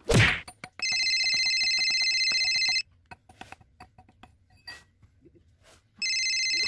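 A phone ringing with a steady electronic trill in two rings of about two seconds each, the first about a second in and the second near the end. A loud falling whoosh comes at the very start, and faint clicks fall between the rings.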